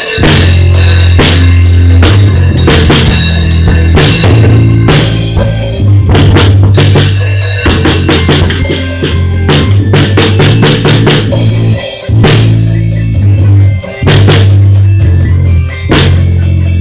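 Rock band playing live: a drum kit driving along with kick and snare hits over a steady, pitch-changing bass line.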